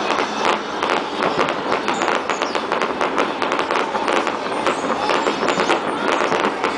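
Fireworks display going off: a dense, continuous run of rapid pops and crackles.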